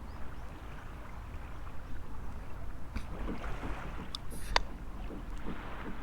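Wind rumbling on the microphone over a steady wash of surf, with a few sharp clicks around the middle.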